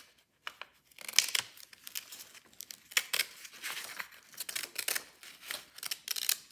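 A sheet of paper being handled and worked, rustling and crinkling in quick, irregular scrapes that start about a second in.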